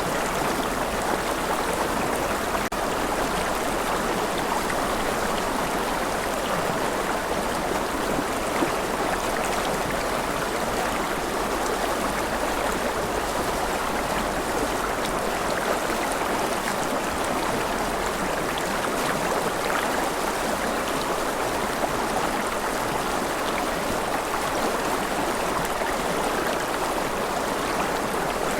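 Gentle rain falling steadily: a continuous, even hiss of drops with no change.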